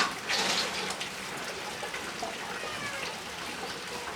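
Water trickling and splashing, with a sharp click at the very start and a louder splash about half a second in.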